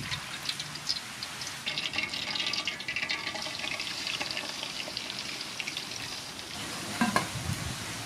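Soybean oil pouring into a cooking pan, a crackly liquid splashing and trickling that fades out near the end.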